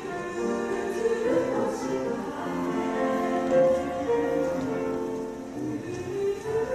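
Choir singing held notes in several voice parts over an accompaniment.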